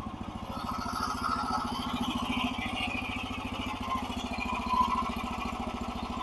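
Small gasoline engine of a portable bandsaw sawmill idling steadily, its firing pulses even.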